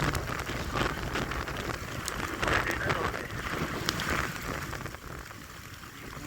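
Heavy rain falling, with scattered sharp ticks of drops and a low rumble of wind. It eases off a little near the end.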